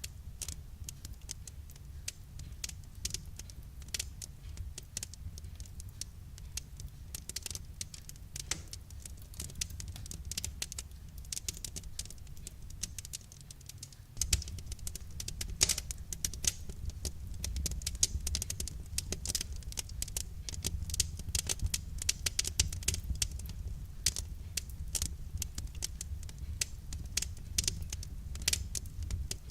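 Wood fire crackling: dense, irregular snaps and pops over a low steady rumble that gets louder about halfway through.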